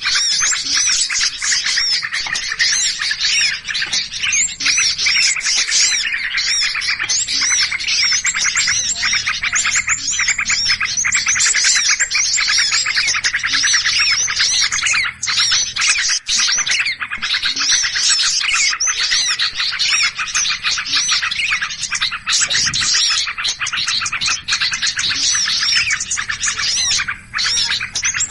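Dense, unbroken chattering of many small birds chirping at once, fast overlapping high chirps like an agitated, noisy flock. It is a bird-lure recording of alarmed small birds, used to draw other small birds in.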